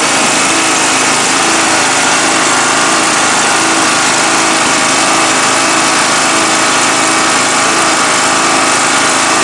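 Riding lawn mower's single-cylinder Briggs & Stratton engine running steadily and loud, with no change in speed.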